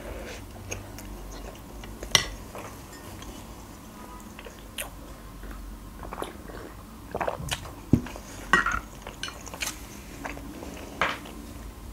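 Close-miked chewing and mouth sounds of a person eating soft waffles topped with kiwi and chocolate, with sharp clicks scattered through.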